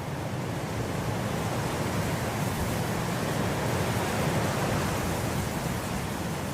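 Wind blowing through grass: a steady rush that swells gently in a gust midway and then eases.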